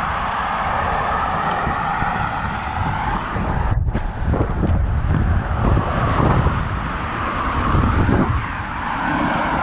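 Wind buffeting the microphone of a camera on a moving road bike, over the steady noise of car traffic on the road.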